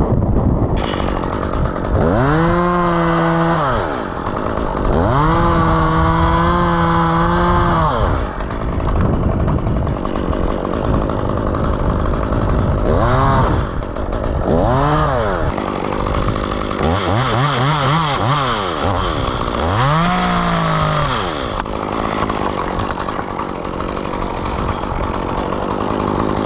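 Two-stroke chainsaw revved to full throttle in bursts: two long runs of a second or two to three seconds early on, then four shorter revs later, each one rising steeply to a high steady whine and dropping back to a lower running sound in between.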